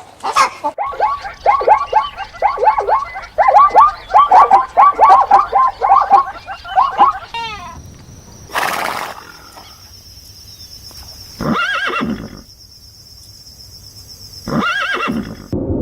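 Recorded animal calls: a fast run of short honking calls for the first seven seconds or so, then a whoosh, a steady high electronic tone, and two longer rising-and-falling calls near the end.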